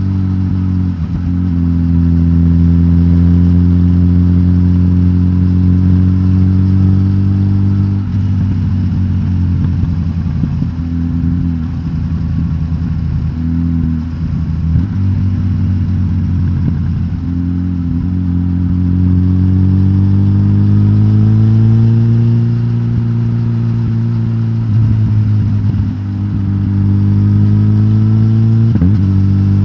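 Suzuki GSX-S1000GT's K5-derived inline-four engine, de-catted with the stock exhaust, running at steady mid revs. The pitch holds mostly level, with a few brief wavers, and rises smoothly about two-thirds of the way through.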